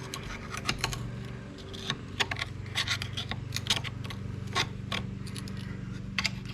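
Irregular light metal taps, clicks and scrapes of a tool working at a glued-in magnet inside a scooter starter motor housing, trying to knock it free, over a steady low hum.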